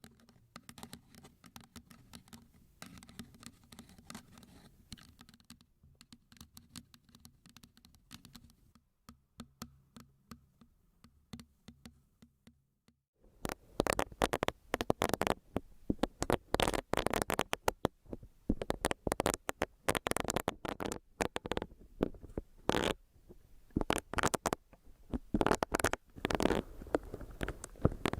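Close-miked scratching and tapping: faint, soft taps and rustles at first, then about halfway through much louder, dense crackly scratches and taps in quick irregular runs.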